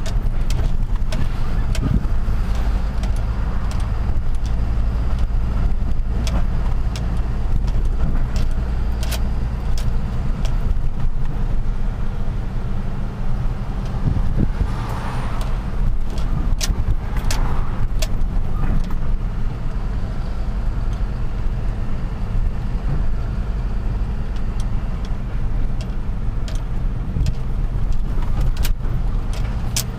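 Truck engine running steadily on the move, a low drone, with many sharp clicks and knocks scattered through it. Two brief rushing swells come about halfway through.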